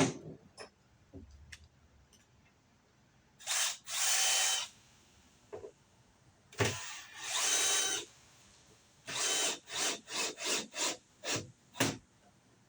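Power drill run in bursts: two runs of about a second each, then a quick series of about eight short trigger blips.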